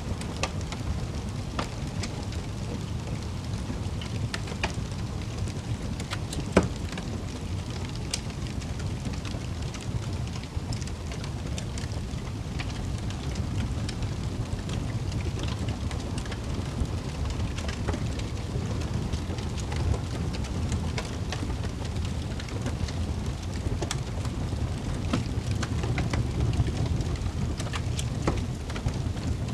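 Wood fire burning in a fireplace: a steady low rumble of flames with scattered crackles and pops, one sharper pop about six seconds in.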